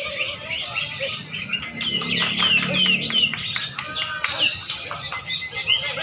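Many caged songbirds singing at once in a songbird contest: a dense chorus of rapid, overlapping chirps and trills, with a run of quick falling whistles about two to three seconds in.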